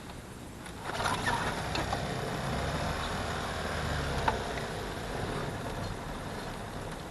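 Cold outboard motor on a jon boat starting about a second in and running, a little quieter after about five seconds. It is cold and was run on too little choke.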